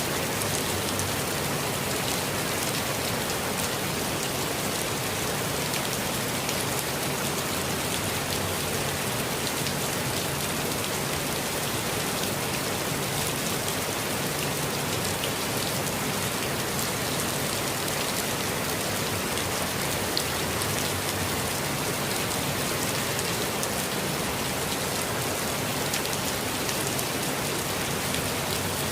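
Steady rainfall in a forest, a constant hiss of rain with fine individual drops pattering through it.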